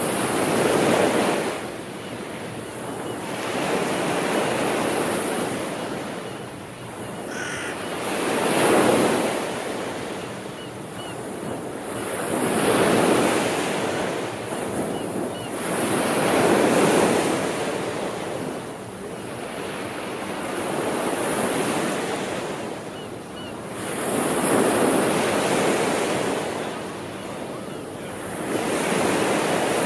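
Sea waves breaking and washing onto the shore, the surf swelling and falling back about every four seconds.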